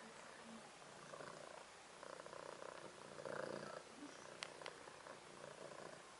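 American Shorthair kitten purring softly, in stretches of under a second that come and go with its breathing. Two faint sharp clicks come about four and a half seconds in.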